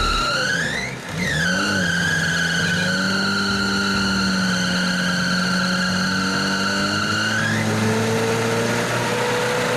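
Off-road 4x4 running hard under load with a loud, steady high whine, its pitch rising sharply into a brief dip about a second in, then holding steady until it drops away near the end.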